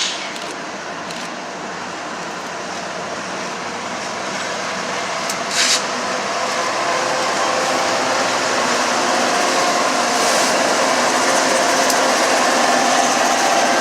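Freight train rolling past, a steady noise of wheels on rail that grows louder. There are two short hisses, one at the start and one about five and a half seconds in.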